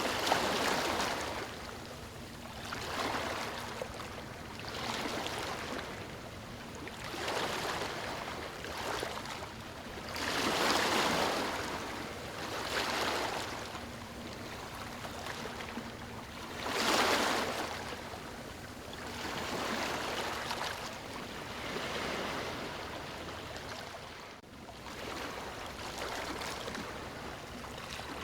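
Small waves washing onto a shore, each surge of water swelling and fading every two to four seconds.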